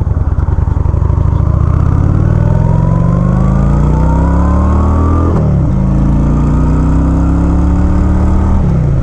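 Motorcycle engine accelerating under the rider: the pitch climbs for about five seconds, drops sharply at an upshift, climbs again, and drops at another shift near the end.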